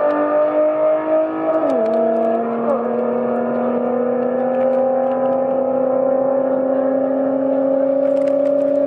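Car engine accelerating hard at full throttle, its pitch climbing steadily, with gear changes that drop the pitch suddenly about two seconds in and again about a second later.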